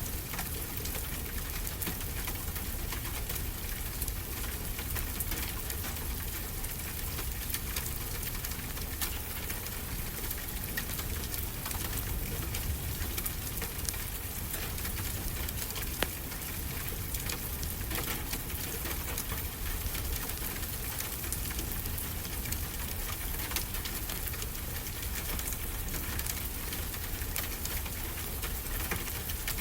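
Steady rain falling, mixed with a wood fire crackling in small, scattered pops, over a low rumble; one sharper crack comes about halfway through.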